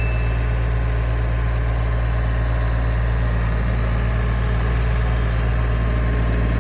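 Tractor engine running at a steady, unchanging speed: a continuous low hum.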